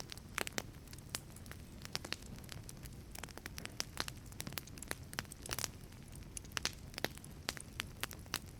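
Wood fire crackling inside a wood-fired pizza oven: irregular sharp pops and snaps, several a second, over a low steady rumble of the burning.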